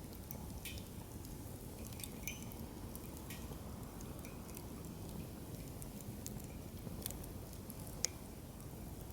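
Wood fire burning in a fire stand, crackling with scattered sharp pops over a steady low background; the loudest pop comes about eight seconds in.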